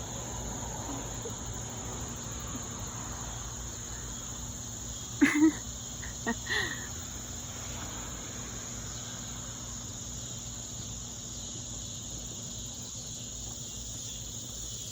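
Insects chirring steadily in a high, even drone, with two short sounds breaking in about five and six and a half seconds in.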